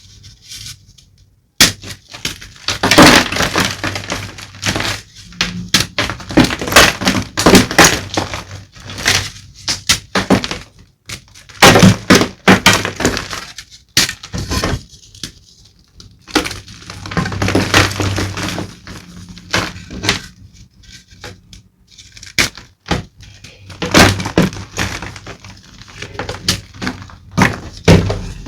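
Blocks of gym chalk being crushed and crumbled: a run of dry crunches and snaps that comes in bursts, with short pauses between them.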